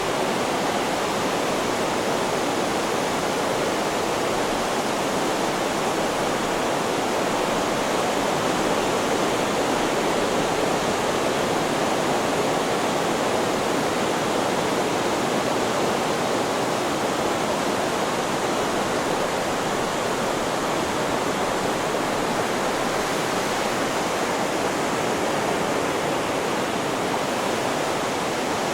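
Steady white-noise track: an even, unchanging hiss at a constant level, with no rise and fall of breaking waves.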